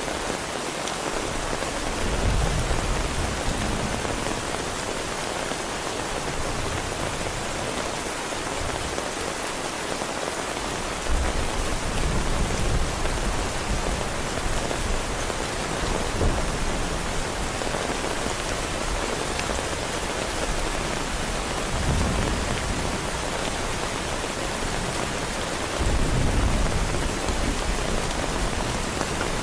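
Heavy rain falling steadily, with low rumbles of thunder swelling up several times.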